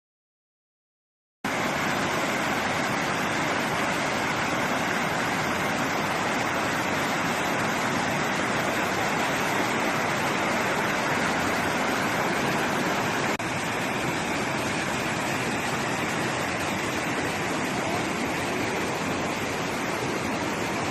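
Steady, even rush of running water, cutting in after about a second and a half of silence.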